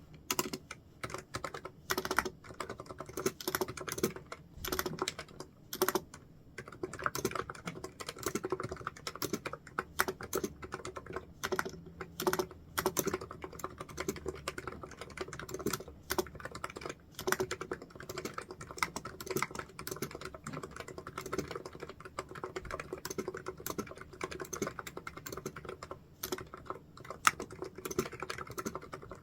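Computer keyboard typing: a steady run of quick, irregular keystrokes, with a faint steady hum underneath.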